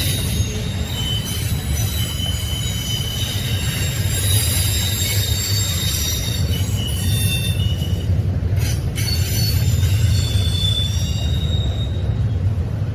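A train rolling past with a steady low rumble, its steel wheels squealing against the rails in short, high-pitched squeals that come and go.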